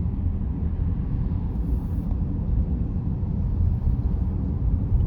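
Steady low rumble of a car driving, tyre and road noise heard from inside the cabin.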